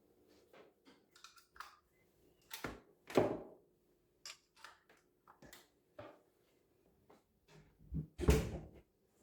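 Household handling sounds in a small room: scattered knocks and clicks of things being moved and set down, with louder clunks about three seconds in and again near the end.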